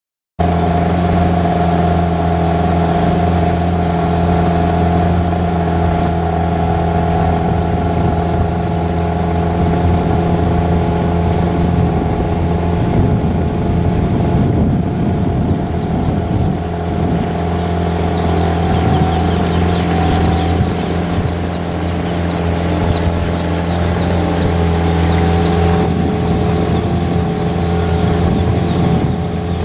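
Boat's motor running steadily at a constant speed, a continuous engine drone.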